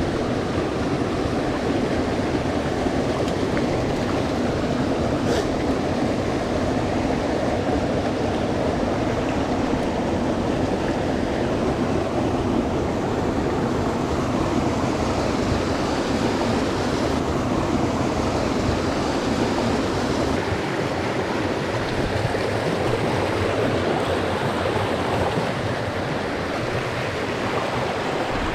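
Mountain stream water running steadily close by, an even rushing noise, with a single brief click about five seconds in.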